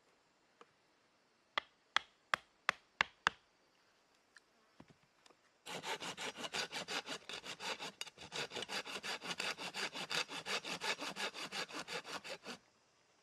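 Hand saw cutting firewood in quick, even back-and-forth strokes for about seven seconds, after a series of six sharp knocks on wood.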